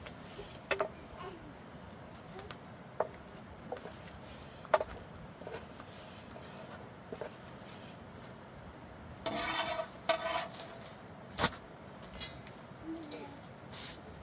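Scattered light clinks and knocks of objects being handled, with a louder, noisier sound lasting about a second near ten seconds in and a sharp knock just after.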